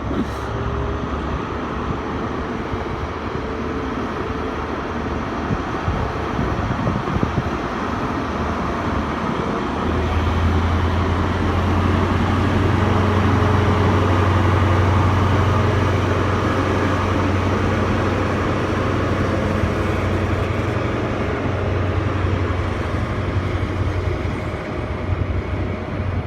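High Speed Train (InterCity 125) pulling away, its Class 43 diesel power cars running under power with a deep engine hum over wheel and rail noise. The engine note gets much louder about ten seconds in and stays strong.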